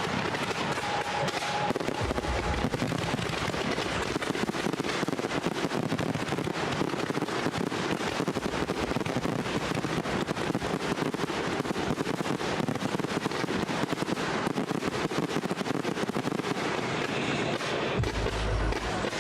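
Fireworks display going off in a dense, continuous run of rapid cracks and bangs, many per second.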